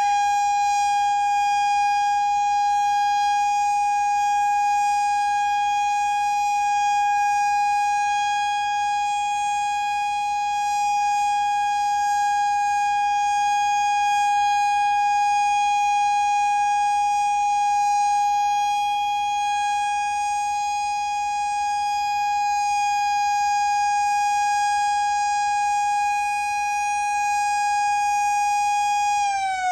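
Federal Signal Thunderbolt outdoor warning siren sounding a steady single tone at full speed, held at one pitch, then starting to wind down with the pitch falling right at the end.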